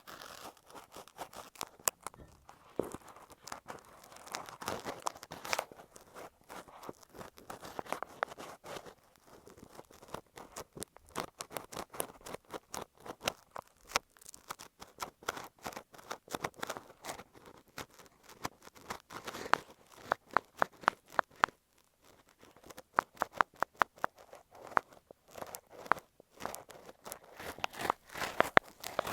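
Ear pick scraping and tapping on an earphone microphone: dense runs of crackly scratches and sharp clicks, thinning out for a moment about two-thirds of the way through.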